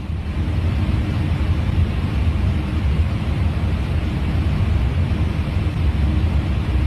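Steady airliner cockpit noise in cruise flight: a constant low rumble of airflow and engines with a faint steady hum.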